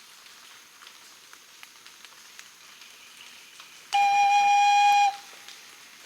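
A flute blown in one long steady note, starting about four seconds in and breaking off after about a second. Before it, only a faint hiss with scattered light ticks.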